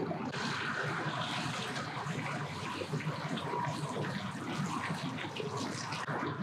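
Boat coming in to the ramp: its motor running under a steady rush of churning water.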